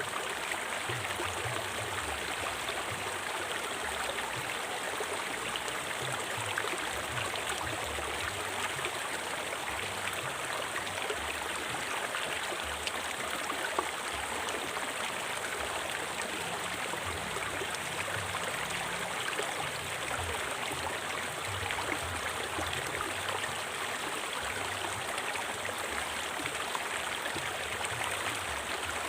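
River water flowing over rocks, a steady rushing and babbling with no break.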